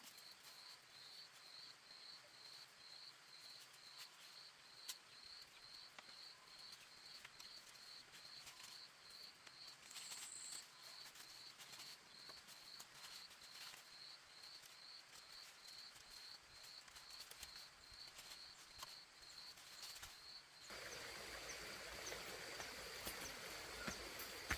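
Faint insect chirping, a high pulse repeating about twice a second, with a few soft clicks. About three-quarters of the way through the chirping stops and a louder steady hiss takes over.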